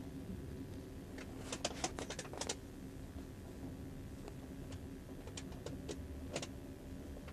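Steady low rumble of a passing passenger train heard from inside a railway carriage, with a quick run of sharp clicks and rattles about one and a half to two and a half seconds in and a few more later.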